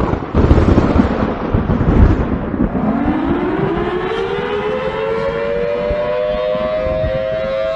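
Civil defense tornado siren winding up: after a loud rushing noise at the start, two siren tones rise in pitch from about three seconds in and settle into a steady wail, sounding a tornado warning.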